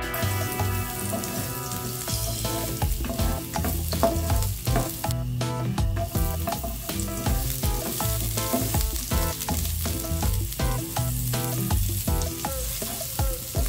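Red onion and minced garlic sizzling in hot oil in a nonstick pan, with a spatula stirring and tapping against the pan many times.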